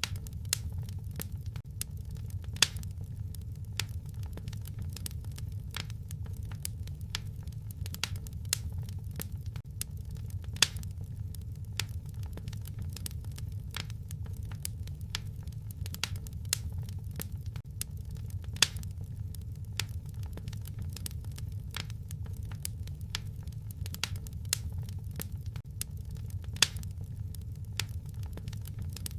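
Wood fire crackling: frequent sharp pops and clicks over a steady low rumble, with a louder pop about every eight seconds.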